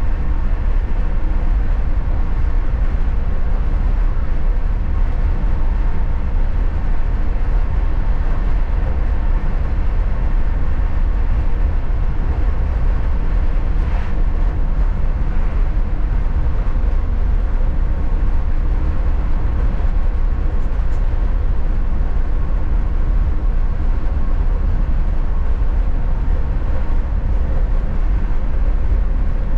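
Passenger train running along the line, heard from inside the coach: a steady low rumble with faint steady tones above it. A faint single click comes about halfway through.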